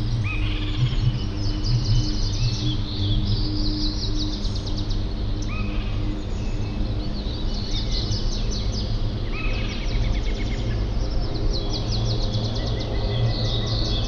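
Several birds singing together: rapid high trills and chirps throughout, with one short whistled phrase repeated every few seconds, over a steady low rumble.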